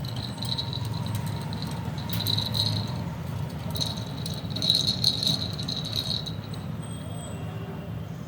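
Small bell or rattle toy in a budgie cage jingling rapidly in three bursts, with a short high chirp near the end.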